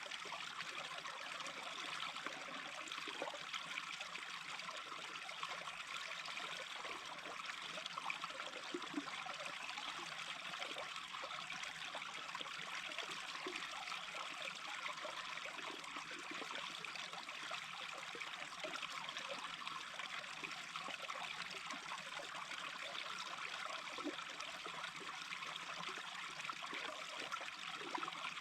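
Small brook babbling steadily, its water trickling and burbling without pause.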